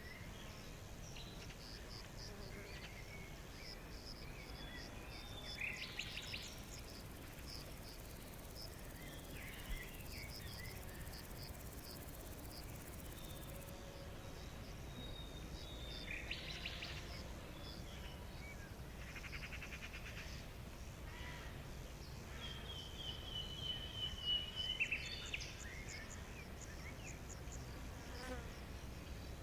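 Wild birds calling and singing over a steady string of short, high-pitched chirps and a low background hiss. A louder, falling trilled song comes about three-quarters of the way through.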